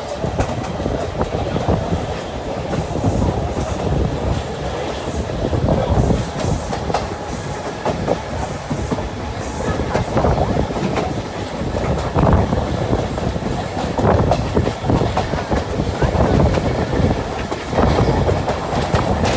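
Moving train running on the rails: a steady rumble with the clickety-clack of the wheels passing over rail joints.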